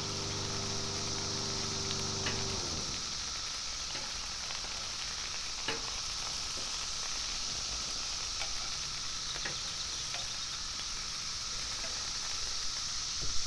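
Chicken wings sizzling on a Blackstone flat-top griddle while they are turned with metal tongs, with a few sharp clicks of the tongs against the griddle. A steady high drone of cicadas runs underneath, and a low steady hum stops about two and a half seconds in.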